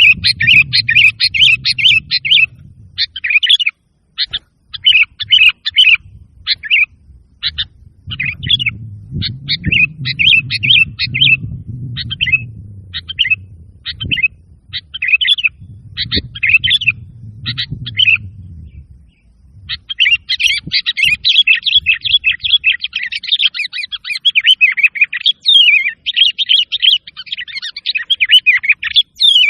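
Sooty-headed bulbul (kutilang) singing loudly: short chattering phrases about once a second, running into an almost unbroken stretch of song in the last third. A low rumble sits under the song at times in the first part.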